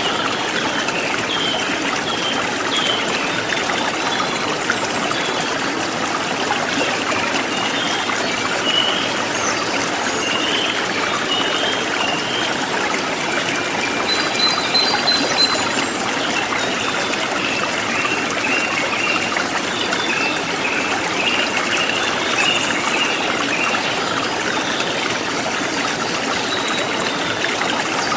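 A forest stream trickling and flowing steadily, with small birds chirping over it in short repeated calls.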